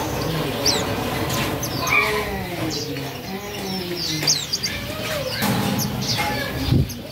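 Small cage finches chirping with short, high, repeated tweets, with people's voices in the background.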